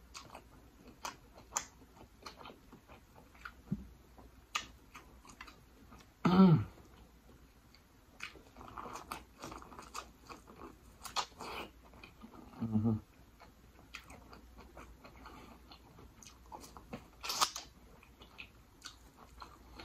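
Close-miked chewing and biting of buttered corn on the cob, with many small wet mouth clicks and smacks. Two short low hums come about 6 and 13 seconds in, and a louder crunchy bite comes near the end.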